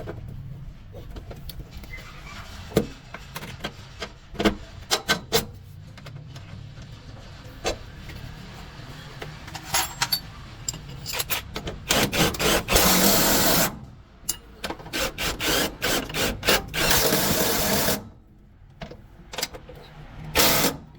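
Workshop tool noise: a run of irregular sharp clicks and knocks, with two longer bursts of hiss, one about twelve seconds in and another about sixteen seconds in.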